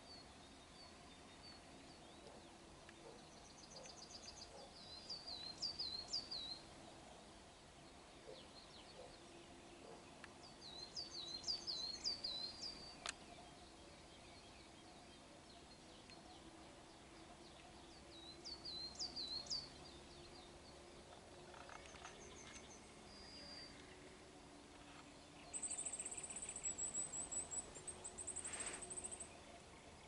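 Songbirds singing in the open: one bird repeats a short phrase of quick high falling notes every six or seven seconds, and about 25 seconds in another gives a very high, fast trill for a few seconds. A faint steady low hum lies underneath.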